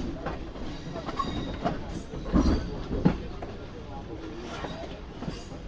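Pakistan Railways passenger train running: a steady rumble with wheel clatter, and two heavier knocks about two and a half and three seconds in.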